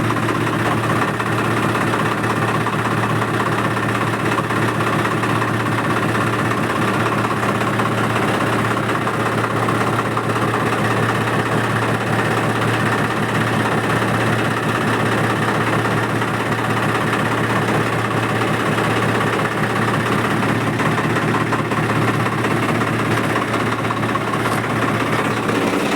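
Swaraj 855 tractor's three-cylinder diesel engine idling steadily with an even, rhythmic chug.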